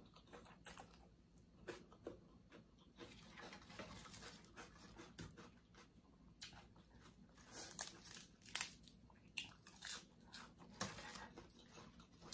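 Close-up mouth sounds of chewing a Thai glass noodle salad with shrimp, squid and raw greens: soft crunches and wet smacks in quick irregular succession, busiest through the middle.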